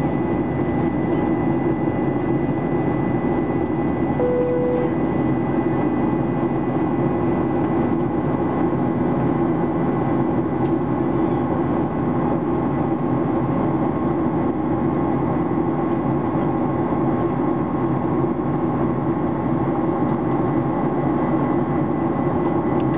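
Steady cabin noise of a Boeing 737-800 in flight: its CFM56-7B turbofans and the airflow over the fuselage, a deep rushing with faint steady whines running through it. A short single tone sounds briefly about four seconds in.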